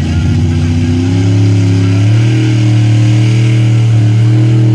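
Pro street pulling truck's engine running hard at high revs under load, its pitch climbing a little about a second in and then holding steady.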